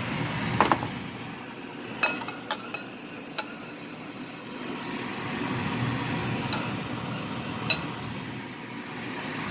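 A utensil clinking sharply against cookware a handful of times at irregular moments, several close together about two to three seconds in, over a steady background hiss.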